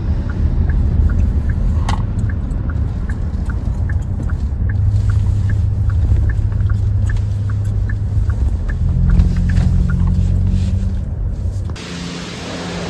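Hyundai Tucson's engine and road noise rumbling inside the cabin, with the turn signal clicking steadily about twice a second as it makes a right turn. Near the end the sound cuts abruptly to a steady hiss.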